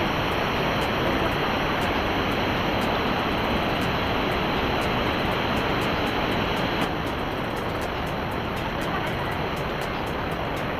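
Steady rush of water falling from a small waterfall into a pool, dropping slightly in level about seven seconds in.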